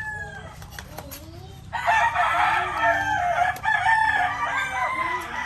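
Roosters crowing, with a loud crow starting a little under two seconds in and lasting about three seconds, and fainter crowing and clucking around it.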